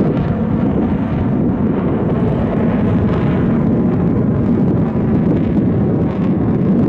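Military jet aircraft flying over: a loud, steady, deep rumble.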